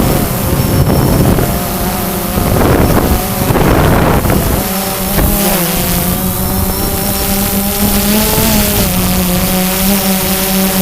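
DJI Phantom 2 quadcopter's motors and propellers humming steadily, the pitch wavering slightly as the drone works against strong wind. Gusts of wind buffet the microphone, strongest in the first few seconds.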